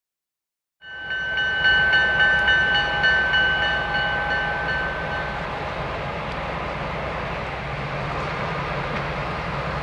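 Pan Am Railways passenger train rolling slowly past: a steady low rumble with a high-pitched ringing tone over it that fades out about halfway through. The sound starts abruptly about a second in.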